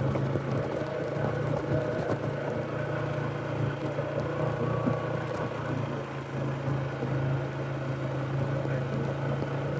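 Fuel-injected Polaris ATV engine running steadily while riding along a trail, an even low drone with mechanical and trail noise over it.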